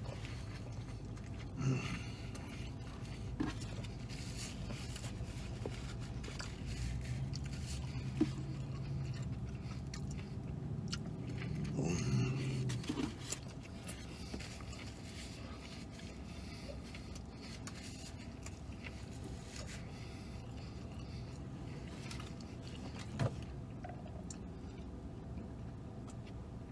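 A man chewing and eating a burger with his mouth close to the microphone, with small clicks and a brief spell of paper rustling about twelve seconds in. A low steady hum runs underneath.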